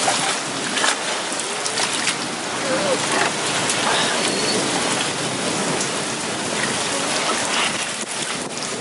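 Heavy rain falling steadily, with scattered louder spatters of drops.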